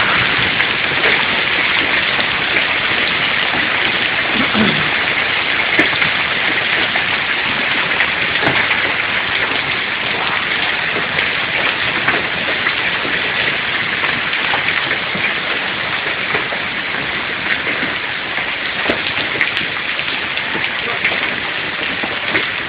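A heavy hailstorm with rain: hailstones pelting down in a dense, steady rush of countless small impacts, with scattered sharper clicks.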